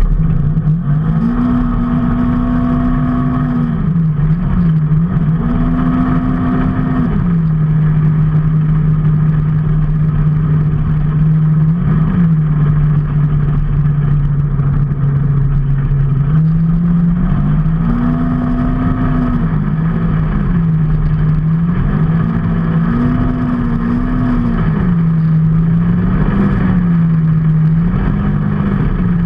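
A vehicle's engine running under way, its note rising and dropping back several times as the throttle changes, with a long steady cruising stretch in the middle.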